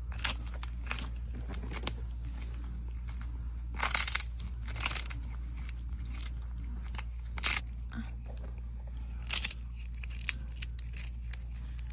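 Crisp crunching, like something brittle being bitten and chewed, in about six short irregular bursts over a steady low hum.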